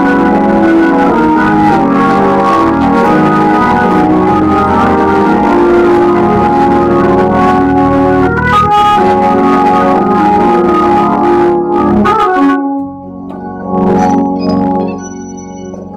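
An organ-voiced keyboard playing loud, sustained chords that change every second or so. About twelve and a half seconds in it drops back to quieter held notes, which fade out near the end.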